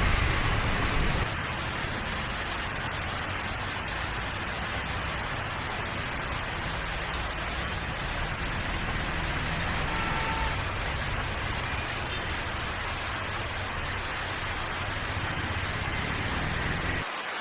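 Steady hiss of heavy rain: an even wash of noise with no distinct drops, slightly quieter after the first second.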